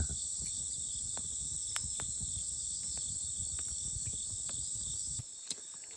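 Crickets and other autumn insects chirring steadily, with a wood campfire crackling and popping in scattered sharp clicks. The fire's low rustle stops abruptly about five seconds in while the insects carry on.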